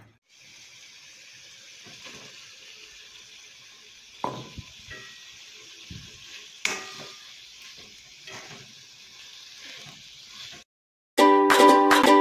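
Fish and potato filling sizzling steadily in a metal wok while it is stirred with a wooden spoon, which scrapes and knocks against the pan several times. Near the end the sound cuts off and louder ukulele music starts.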